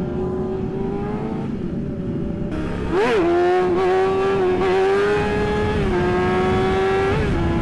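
Yamaha R6 sport bike's inline-four engine running at high revs. It revs up sharply and drops back near three seconds, then holds a steady high pitch with small steps and another quick blip and drop near the end, as it shifts gears.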